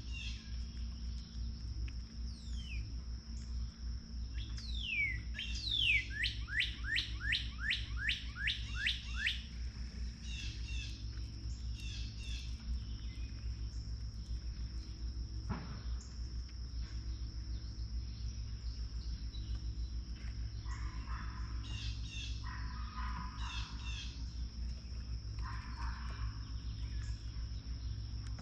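Songbirds calling around a backyard feeder: about five seconds in, a run of about ten quick downslurred whistled notes, then scattered short chirps. A steady thin high-pitched tone and a low hum run underneath, with a single sharp click about halfway through.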